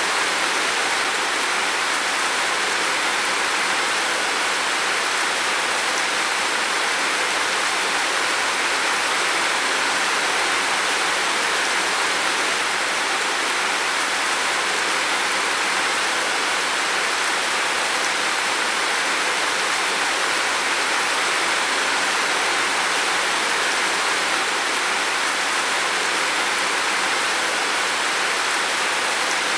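Heavy rain falling steadily on a roof, a dense, even hiss with no let-up.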